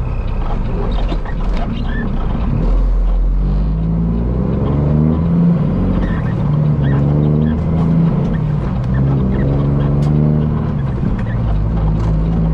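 Peterbilt semi truck's diesel engine heard from the cab while driving, its pitch rising and dropping several times as it revs up and down.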